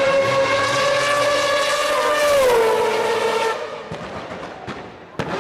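Race car engine held at high revs with a steady, high-pitched note that drops in pitch a little over two seconds in and fades away, followed by a few sharp pops.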